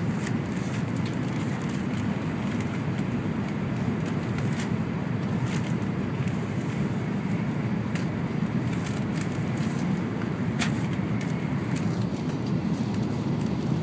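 Cabin noise inside an N700-series Shinkansen car under way: a steady low rumble from the running train, with a few faint clicks.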